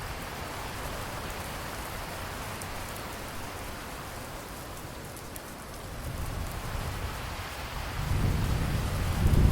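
Steady rain with low rolling thunder that swells over the last few seconds.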